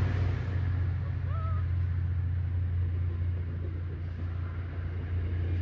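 MBTA commuter rail train going by, its diesel locomotive and wheels making a steady low rumble.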